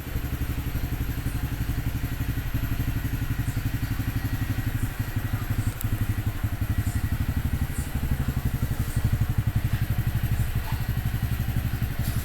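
Honda Cross Cub 110's air-cooled single-cylinder four-stroke engine idling steadily through an aftermarket Yoshimura exhaust, with an even, rapid pulsing beat.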